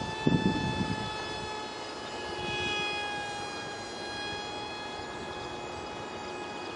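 Thin, high whine of an ultra micro RC plane's 8mm electric motor spinning a direct-drive propeller, holding a steady pitch that shifts slightly a couple of seconds in. A few low thumps, like wind buffeting the microphone, come in the first second.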